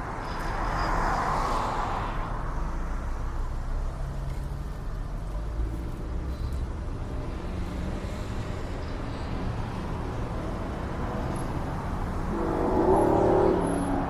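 Road traffic heard from a moving scooter: a steady low rumble of tyres and wind. Near the end a vehicle passes close by, its pitch dropping as it goes.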